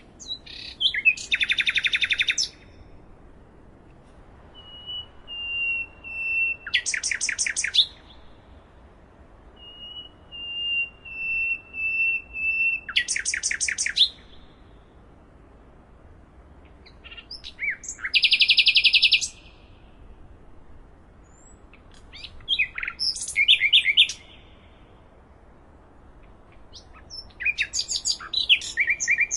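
Songbird singing six separate phrases, each a second or two long and about five seconds apart, with faint background hiss. Each phrase is a fast, high trill; two of them open with a thin, steady whistle that falls slightly in pitch.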